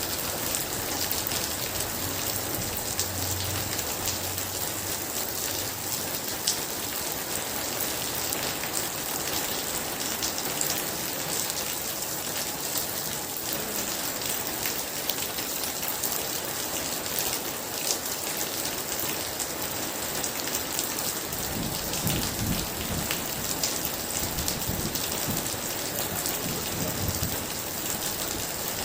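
Very heavy rain pouring steadily, a dense patter of drops hitting surfaces. A low thunder rumble rolls in a few seconds in and again in the last third.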